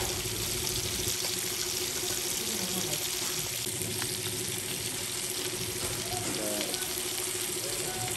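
Dried buffalo meat (sukuti) frying in oil in a pan, sizzling with a steady hiss over a faint steady hum.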